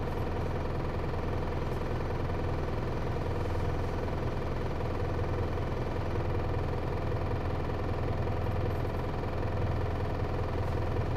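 Hino Liesse microbus's J05C diesel engine running with a steady low hum, heard from inside the cabin, its level rising slightly in the second half.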